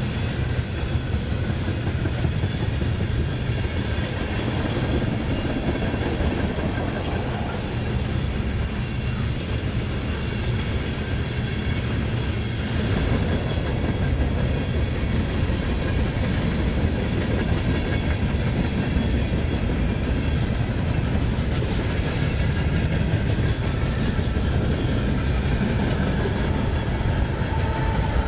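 Freight train rolling steadily past, a continuous rumble with the clatter of car wheels on the rails.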